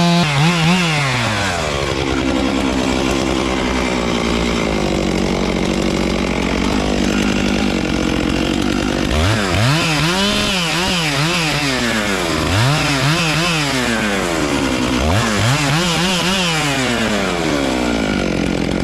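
Gas chainsaw running: the engine holds a fairly steady pitch for several seconds, then is revved up and let back down repeatedly in the second half, as in cutting.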